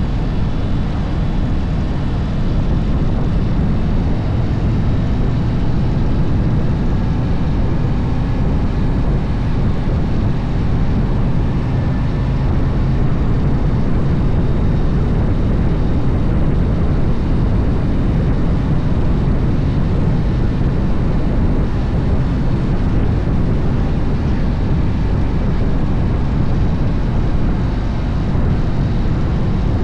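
Harley-Davidson motorcycle riding at a steady pace, its engine and the ride making a loud, even low rumble with no clear revving.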